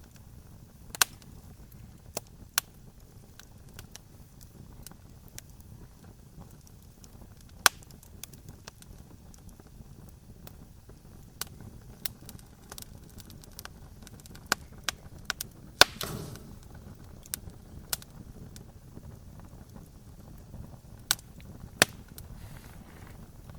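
Wood campfire crackling: sharp, irregular pops every second or two over a low steady rumble of the flames. The loudest pop, about 16 seconds in, trails off in a brief hiss.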